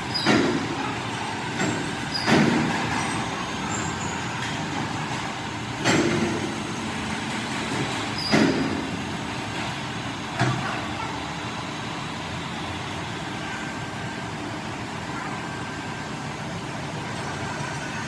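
Five sharp knocks spread over about ten seconds, the first four about two seconds apart, over a steady mechanical running noise.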